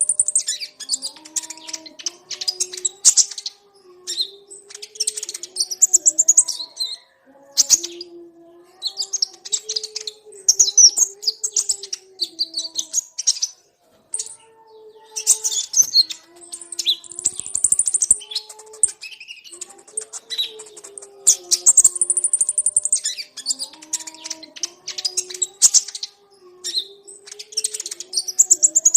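Many sunbirds (kolibri ninja, 'konin') twittering and chirping in rapid high chattering runs, as on a looped bird-lure track. A low, slow stepping melodic tone runs beneath them, and the pattern repeats about every seven seconds.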